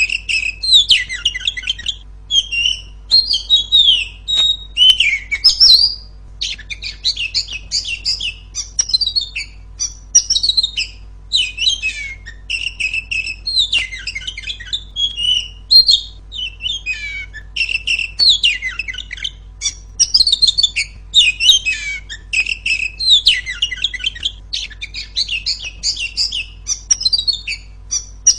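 Female Oriental magpie-robin singing: a continuous stream of rapid, varied, high chirping and whistled phrases with brief pauses between them.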